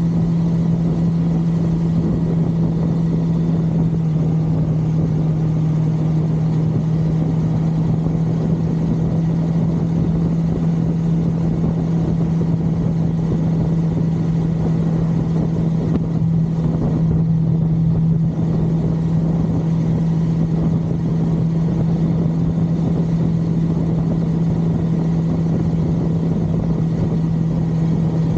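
1982 Suzuki GS550L's air-cooled inline-four engine running at a steady cruise, one even drone, over a constant rush of wind and road noise from riding at speed.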